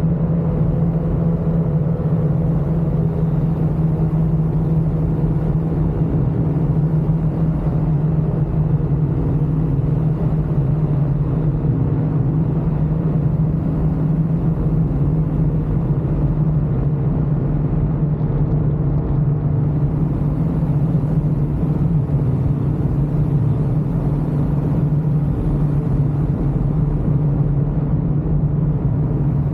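Ultralight aircraft engine running steadily in flight: a constant drone that holds one pitch, with no change in speed.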